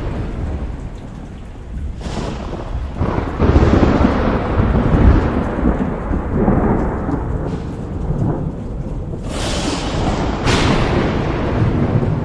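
Steady heavy rain with thunder: a crack about two seconds in, then a loud low rumble that rolls on for several seconds, and two more sharp cracks near the end.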